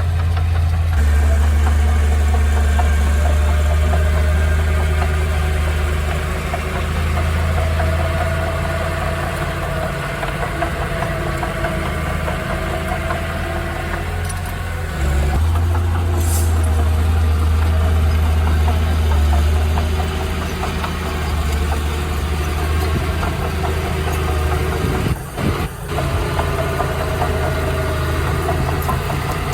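Heavy diesel earthmoving machinery running, the engine note easing off and building up again about halfway through.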